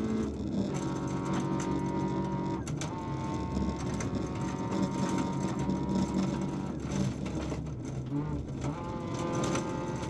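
VW Polo 1.4 16V rally car's four-cylinder engine running hard, heard from inside the cabin, its note breaking and changing pitch a third of a second in, at about three seconds, and again near the end.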